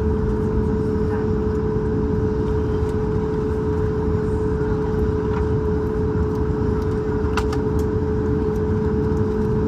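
Steady cabin drone of a Boeing 737 MAX 8 holding on the runway with its CFM LEAP-1B engines at idle: a constant mid-pitched tone over a low rumble, with a few faint clicks.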